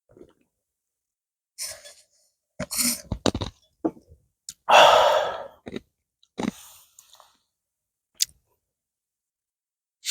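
Scattered close-up eating and drinking sounds: short clicks and crunchy chewing, with one louder breathy sound about five seconds in.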